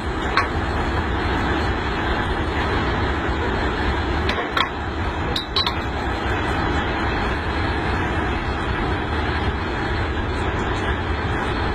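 Railway locomotive running steadily with a low rumble, with a few sharp metallic clinks about halfway through.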